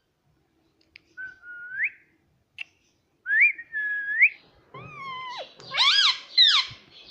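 Pet parrot whistling: a couple of smooth rising whistles, then a falling call and a quick run of wavering, louder chirps near the end.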